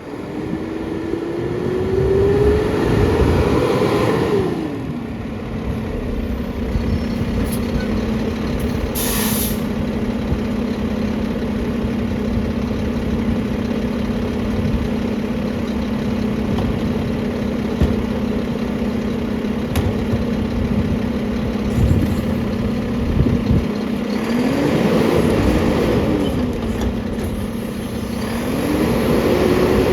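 Mack LR garbage truck's diesel engine revving up and holding a steady raised speed while the McNeilus packer body runs a packing cycle. A short hiss of air comes about nine seconds in. Near the end the engine speed dips and rises again.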